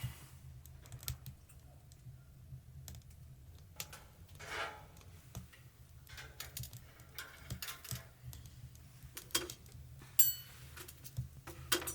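Scattered light clicks and taps at an irregular pace over a steady low rumble, with a short ringing metallic clink about ten seconds in and a few more clinks near the end.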